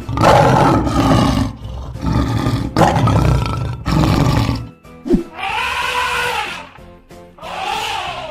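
Cartoon lion roar sound effect, two long roars one after the other, over background music, followed by two shorter higher calls that rise and fall in pitch.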